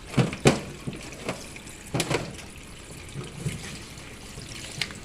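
Water splashing and trickling, with several short sharp splashes, the strongest two near the start.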